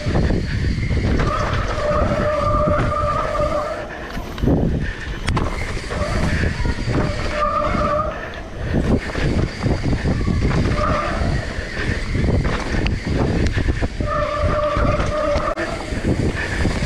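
Mountain bike running down a dirt downhill track: tyres rolling and scrabbling over dirt and roots, with the chain and frame rattling and knocking over the bumps. Short stretches of a steady buzzing tone come and go, about half a second in, near the middle and near the end.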